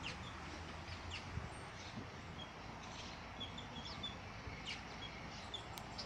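Small birds chirping: short, high chirps scattered through, over a steady outdoor background hiss.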